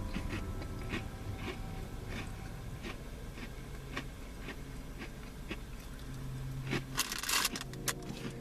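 Someone chewing a crispy pumpkin spice cookie, with short crunches about every half second, and a louder burst of rustling about seven seconds in.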